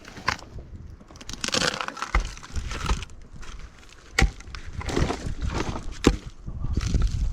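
Dry wood and brush cracking and crunching, with a few sharp snaps and knocks, some with a dull thud, at irregular moments.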